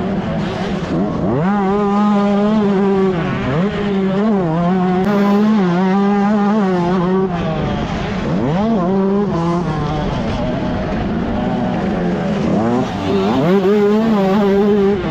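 125cc two-stroke motocross bike engine running hard under race throttle. Its pitch holds steady for stretches, then climbs and drops sharply several times as the throttle is worked and gears change.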